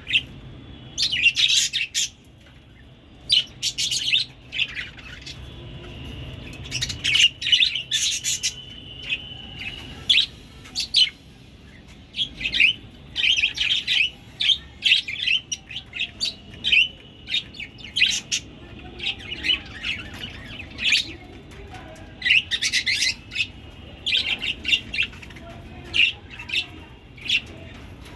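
Budgerigars chirping and chattering in quick, sharp bursts, on and off throughout.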